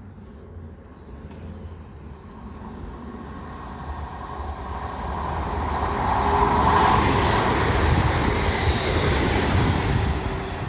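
Class 350 electric multiple unit passing through the station without stopping: wheel and rail noise with a faint electric whine, building from a few seconds in, loudest around six to nine seconds in, then starting to ease.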